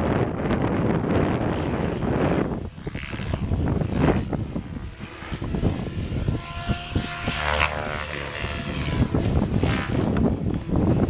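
Model airplane's motor and propeller whining as it flies past, loudest and shifting in pitch from about six to nine seconds in. Strong wind gusts buffet the microphone, above all in the first half.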